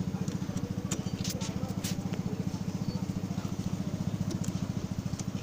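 An engine running steadily with a low, fast, even pulse, and a few sharp metallic clicks about one to two seconds in.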